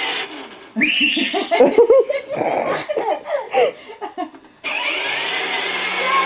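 Hearty laughter for about three seconds, with a steady whirring hiss before and after it from the small electric motor of a child's ride-on toy motorcycle.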